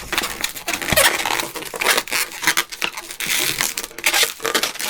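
Latex 260Q modelling balloons being handled and twisted by hand, with irregular rubbing and crinkling of the rubber.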